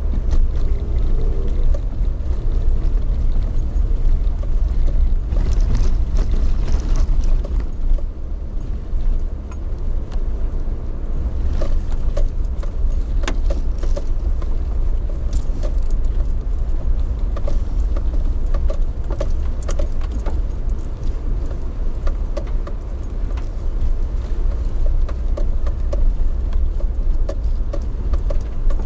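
A vehicle in motion heard from inside: a steady low rumble with light rattling and scattered clicks.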